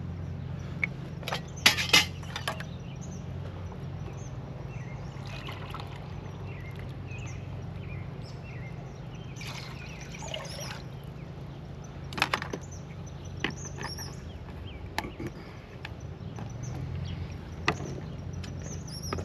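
Water being poured into a cooking pot, with a few sharp clanks of the cookware, the loudest about two seconds in. A steady low hum runs throughout.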